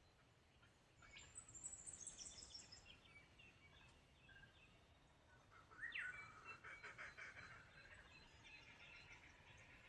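Faint wild birds calling and singing: high chirps start about a second in, then a quick rising call near the six-second mark is followed by busy chattering.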